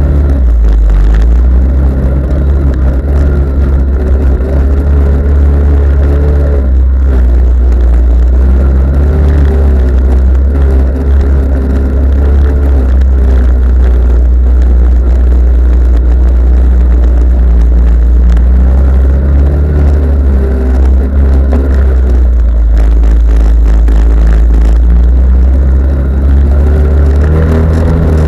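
Off-road vehicle engine running loud, its pitch rising and falling as it is revved over a heavy low rumble.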